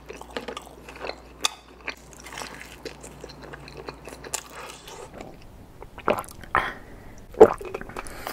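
Close-miked eating sounds: wet chewing, lip smacks and finger-licking over pepperoni pizza dipped in garlic sauce. In the last few seconds there are a few sharper, louder bites, the loudest about seven seconds in.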